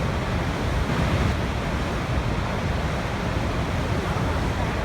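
Waterfall rushing in a steady, unbroken roar of falling water, deepest in the low end.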